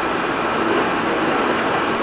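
Steady running noise of a JR East 205 series 600 subseries electric train heard from inside the car: wheels on rail and train rumble at an even level.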